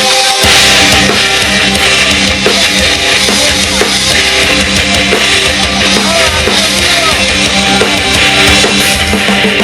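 Metal band playing an instrumental passage: distorted electric guitars over a drum kit, with the bass and drums dropping out for a moment at the very start before the full band comes back in.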